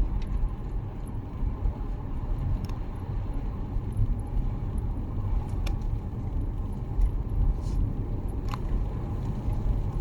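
Car driving, heard from inside the cabin: a steady low rumble of road and engine noise, with a few light clicks and rattles.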